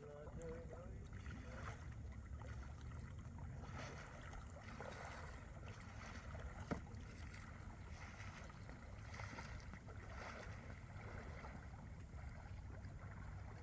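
Kayak paddle strokes splashing in lake water, coming every second or two over a steady low rumble, with a single sharp knock about halfway through.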